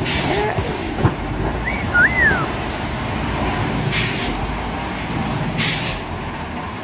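Heavy truck running with a steady low rumble, with short hisses of released air three times and a brief squeal and a sharp click.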